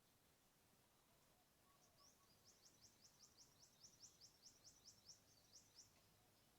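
A bird singing faintly: a fast series of short, high, rising notes, about four a second, starting about two seconds in and stopping about four seconds later.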